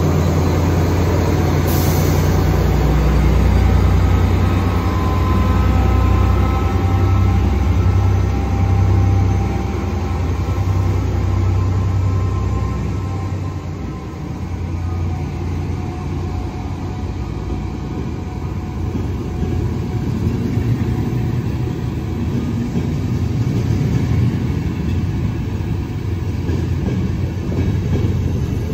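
Train running on rails: a deep, steady rumble and hum that eases into a lighter, even rumble about halfway through, with one sharp click about two seconds in.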